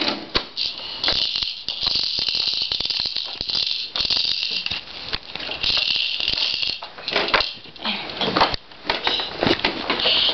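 Baby's plastic toys rattling and clacking in repeated spells of shaking, with sharp knocks and clicks in between.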